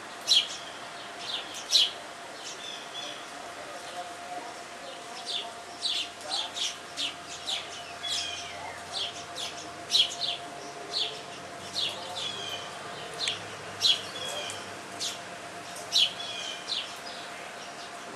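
Small backyard birds chirping: short, sharp chirps repeating irregularly, often several in quick succession, over a faint steady hum.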